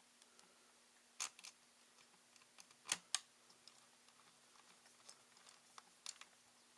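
Small sharp clicks and taps of ThinkPad T61 laptop parts being handled and fitted during reassembly, a handful of separate ticks with the loudest pair about three seconds in.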